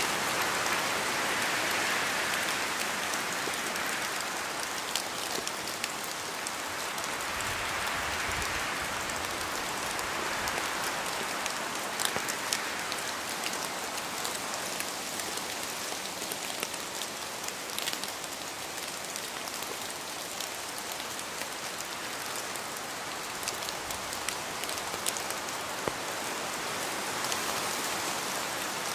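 Steady rain falling on a surface, an even hiss with scattered individual drops ticking, swelling and easing slightly in intensity.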